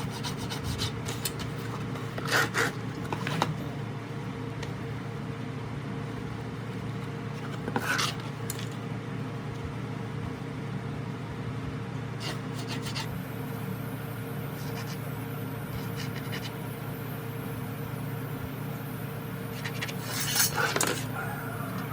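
Rubbing and scraping by hand on a rusted metal part, with a few short clatters, over a steady low hum.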